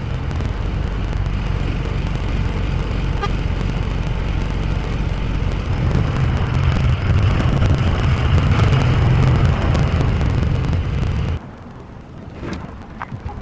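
Truck engine running steadily, growing louder about halfway through, then stopping abruptly near the end.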